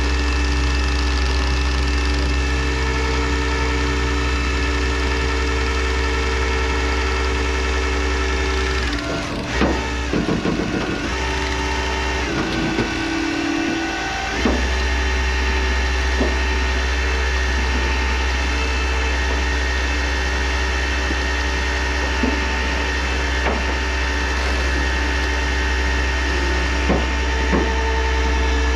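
A tow truck's engine running steadily, with a constant low hum and a whine over it. About nine seconds in, the hum breaks up for several seconds with a few clunks and a shifting tone before settling back.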